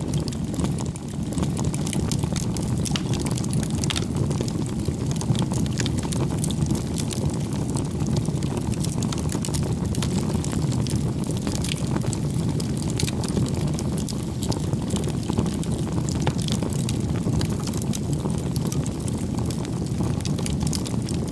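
Campfire burning: a steady low rumble of flames with frequent small, sharp crackles and pops from the burning wood.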